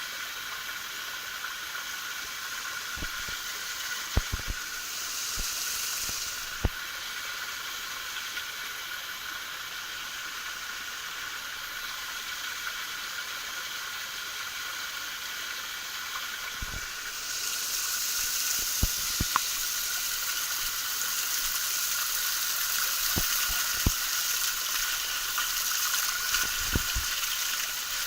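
A small forest waterfall splashing steadily, a hissing rush of falling water that grows louder about two-thirds of the way through. A few scattered short clicks or knocks sound over it.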